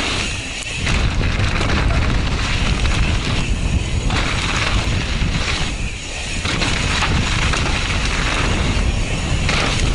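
Wind buffeting a helmet-mounted camera's microphone while a mountain bike rides down a wet, rough dirt trail, a steady loud rushing rumble. It eases briefly about half a second in and again around six seconds.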